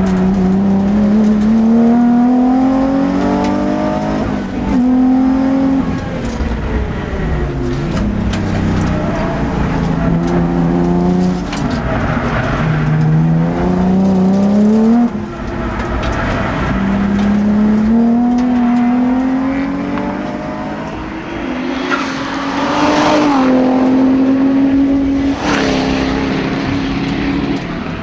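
Twin-turbo Nissan 350Z's V6 heard from inside the car on track at full throttle: the engine note climbs steadily through each gear and drops sharply at every shift or lift for a corner, several times over, with a high whistle riding over the acceleration.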